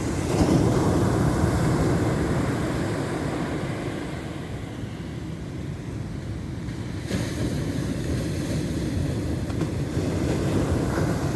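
Ocean surf: waves washing in as a continuous rush, swelling just after the start, easing off in the middle, and a fresh wave coming in about seven seconds in.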